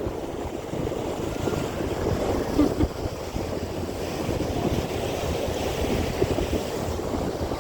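Strong wind buffeting the microphone at sea, a steady rumbling rush over the sound of the open ocean.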